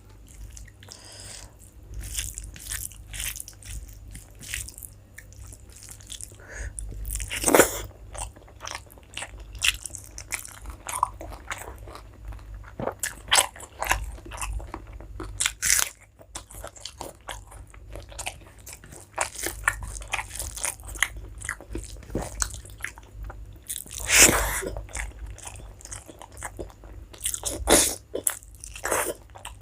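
Close-up sounds of a person eating rice and curry: continuous wet chewing and mouth smacks, with a few louder bites standing out.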